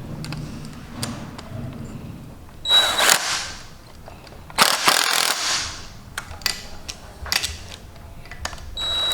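Two short bursts of a power tool, under a second each, a couple of seconds apart, the first starting with a brief high whine, while fasteners are tightened on a race car engine install. Scattered sharp metallic clicks of hand tools come between them.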